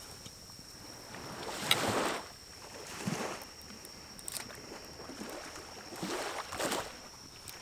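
Pinecones burning in a small wood-burning stove: soft rushes of fire that swell and fade, with sharp crackles about two seconds in, near the middle and near the end.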